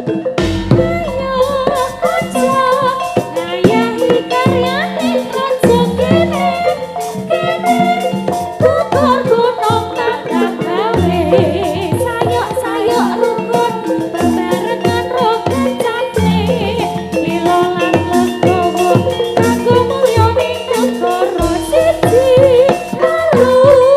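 Javanese gamelan music for a jathilan dance, played loud through a sound system: repeated pitched metal strikes and drum hits under a wavering sung melody.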